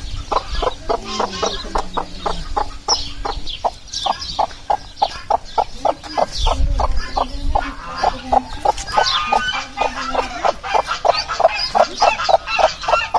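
Flock of laying hens clucking steadily, many short overlapping clucks several a second, with higher calls over them.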